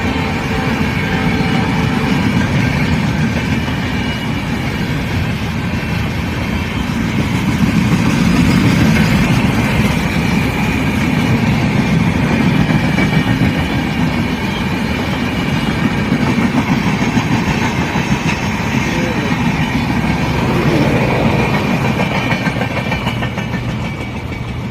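A steady, loud mechanical rumble with faint steady tones above it, swelling slightly about eight seconds in.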